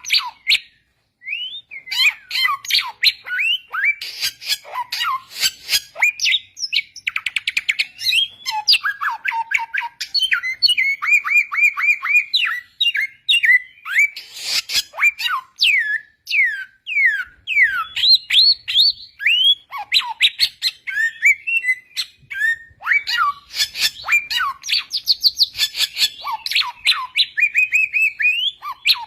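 Samyong bird singing a long, varied song of rapid chirps, trills and clear down-slurred whistles, with hardly a pause.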